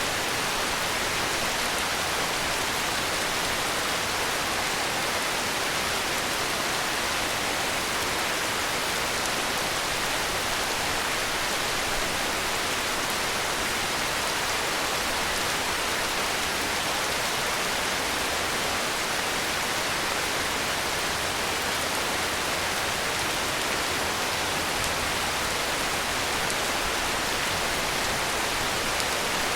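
Heavy rain falling steadily, an even hiss with no sudden noises.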